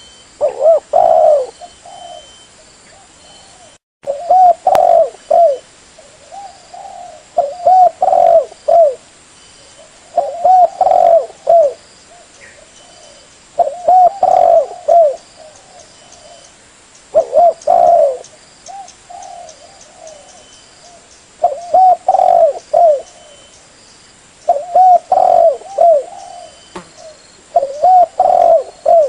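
Spotted dove (tekukur) cooing loudly: a phrase of several low coo notes, repeated about every three and a half seconds, with softer single coos in between.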